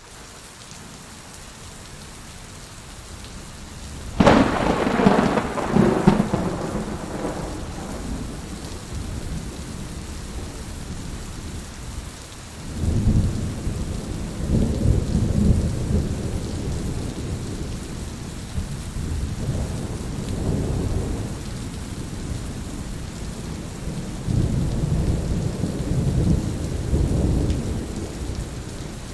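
Steady rain with thunder: a sharp thunderclap about four seconds in that fades over a few seconds, then low rolling rumbles of thunder swelling up several times later.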